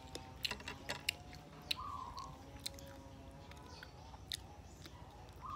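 Close-up mouth sounds of a person chewing soft banana: wet clicks and smacks scattered irregularly through the chewing.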